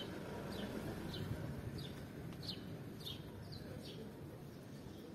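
A small bird chirping, a run of about eight short, high, downward-sliding notes roughly every half second that stops about four seconds in, over a steady low background murmur.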